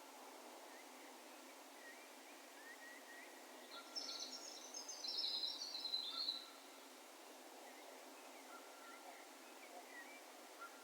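A songbird sings one high, rapid twittering phrase lasting about two and a half seconds, starting about four seconds in, over faint scattered calls of distant birds and a steady hiss of open-air background noise.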